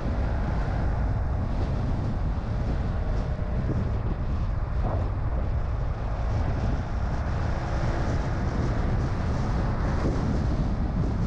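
Car driving on a road: steady low rumble of road and engine noise.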